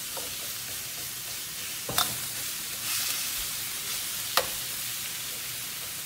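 Ground beef and onions sizzling as they brown in a hand-hammered wok, stirred and scraped with a metal spatula. Two sharp clinks of the spatula against the wok, about two seconds in and again just past four seconds.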